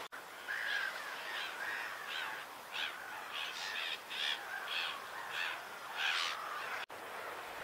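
A bird calling over and over, a dozen or so short calls at roughly two a second, stopping near the end.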